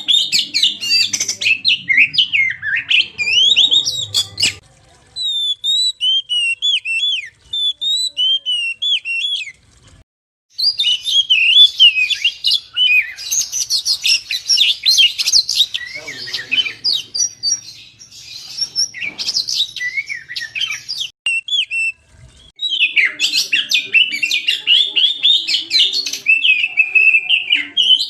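Oriental magpie-robin (kacer) singing a loud, varied song of rapid whistles and chattering phrases, broken by short pauses about five, ten and twenty-two seconds in.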